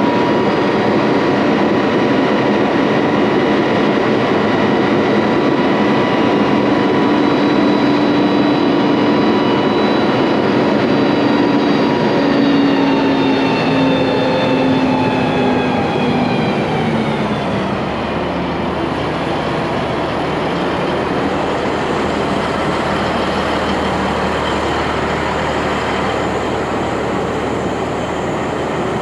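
Heavy diesel engine running at raised speed with a steady droning note. About two-thirds of the way through, its pitch falls over several seconds and it settles into a lower, steadier hum.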